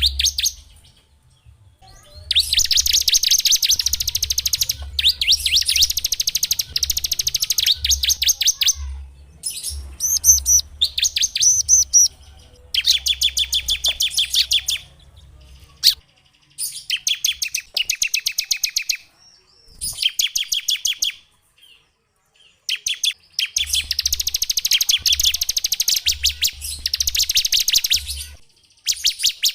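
Small songbird singing in long, fast trills of rapidly repeated high notes, in bouts of a few seconds broken by short pauses, with a faint low hum under the louder bouts.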